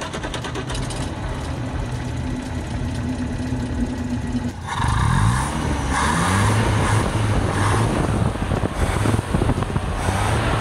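Land Rover Series 2A's 2.25-litre inline four-cylinder engine running. About halfway through it gets louder and the revs rise and fall a couple of times before it settles to a steady run.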